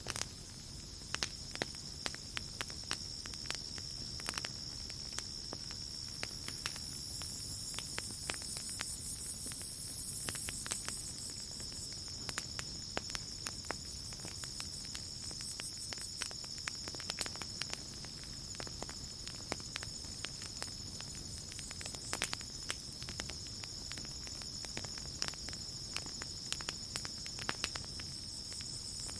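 Campfire crackling with scattered sharp pops, over a steady high-pitched chorus of crickets.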